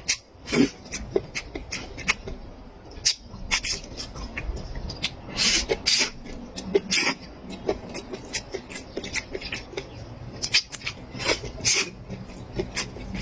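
Close-miked eating sounds: chewing and wet lip-smacking, a quick irregular run of short clicks and smacks.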